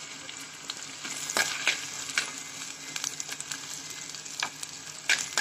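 Ginger, garlic, green chillies and curry leaves sizzling in hot oil in a clay pot. A steel spoon stirs them and scrapes or knocks against the pot several times.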